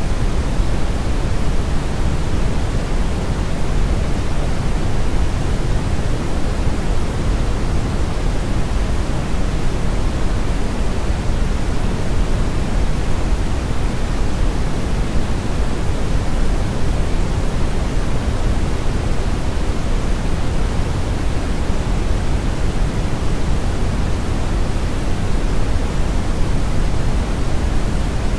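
Steady brown noise: an even, unchanging rush with most of its energy in the low end and the highs rolled off.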